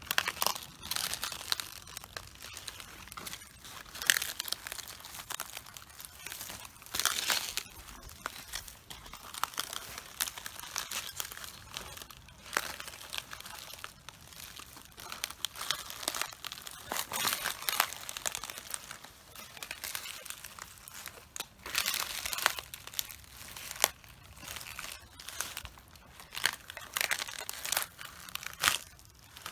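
Cabbage leaves crunching, crackling and tearing underfoot as someone walks on cabbages, in repeated bursts about every second, a few of them louder.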